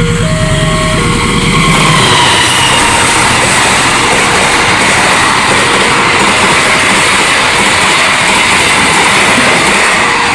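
A train passing over a railway level crossing: from about two seconds in, the loud rumble and rattle of its wheels on the rails fills the sound. Under it the crossing's electronic warning siren keeps sounding, alternating between two pitches. A low drone is heard in the first two seconds, before the wheel noise.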